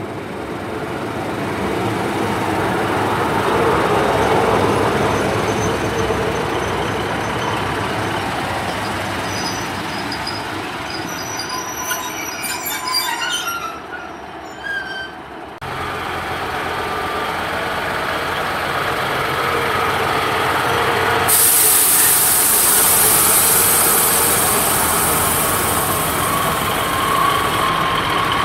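Class 150 diesel multiple unit running into the platform, its brakes and wheels squealing in high tones as it slows to a stand about halfway through. After an abrupt change, the train's diesel engines run steadily at the platform, with a hiss added for the last several seconds.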